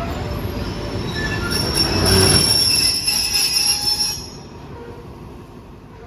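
A train running through on steel rails, its wheels squealing in high steady tones over the rumble. The squeal grows about a second and a half in, is loudest through the middle, and fades out suddenly past the four-second mark, leaving a lower rumble.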